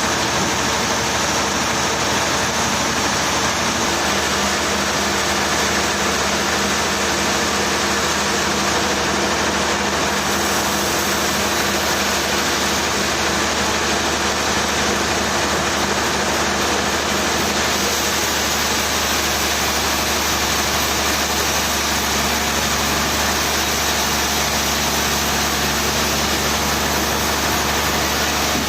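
An engine running steadily at an even speed, with a constant low hum and no change in pitch or load.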